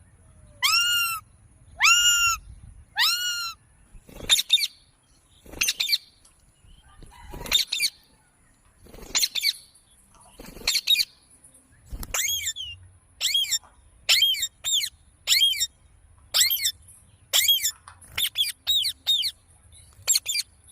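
Pet parrot calling over and over: at first arched calls with overtones, about one a second, then spaced a second or two apart, and from about halfway on shorter, quicker calls, some several to a second.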